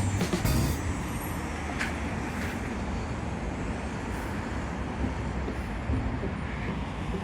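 Steady road traffic noise, a low rumble of passing vehicles, with a few short clicks near the start.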